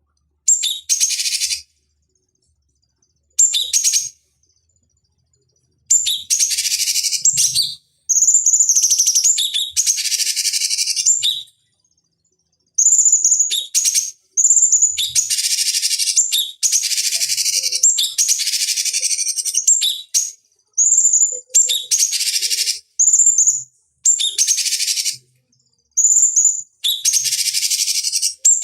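Cucak cungkok singing in repeated bursts, each phrase opening with a high clear note and running into a dense, rapid chatter, with short pauses between phrases.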